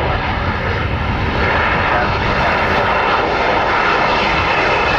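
Airliner engines running loud and steady as a plane passes close by on the runway or approach.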